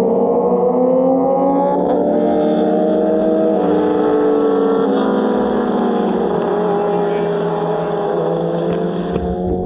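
Several racing motorcycle engines running, their pitches rising and falling against each other. A steady hiss comes in about a second and a half in and stops near the end.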